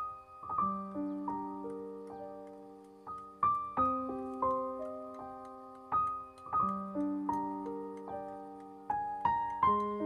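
Background music: a slow piano tune, each note struck and left to ring out, with chords played a note at a time.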